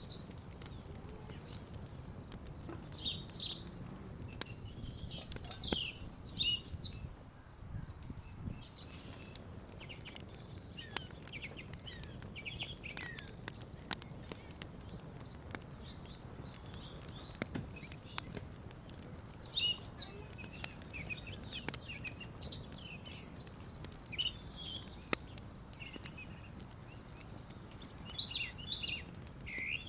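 Small birds chirping in quick, scattered calls throughout, with a few faint clicks and a low outdoor background hum.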